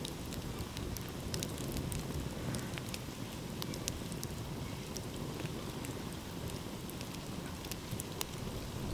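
Wood fire crackling, with scattered sharp pops over a steady low rush.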